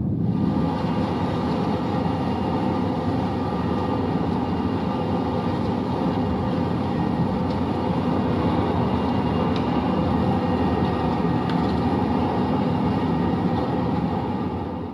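Steady, loud rushing roar from wildfire news footage played back, with a few faint ticks; it cuts off suddenly at the end.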